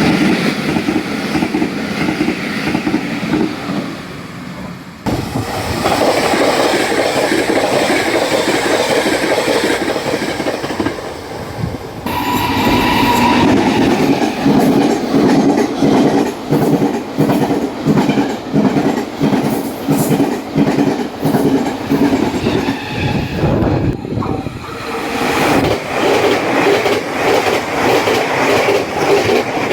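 Taiwan Railways trains passing at high speed, over 100 km/h, one clip after another. The wheels clatter in an even rhythm over the fishplate rail joints. The sound changes abruptly three times, at the cuts between passes.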